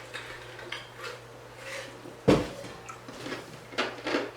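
Dishes and utensils clattering and clinking, with one loud knock a little over two seconds in and a few lighter knocks near the end.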